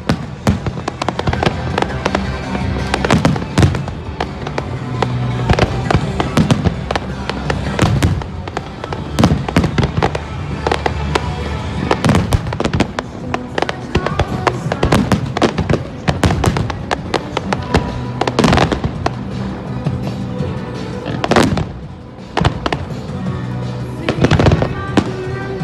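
Aerial fireworks shells bursting in a dense run of sharp bangs, over steady music.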